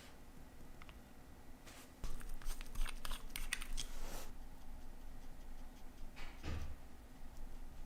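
Light clicks and scratches of small watchmaker's tools on watch parts for about two seconds, then a single soft knock.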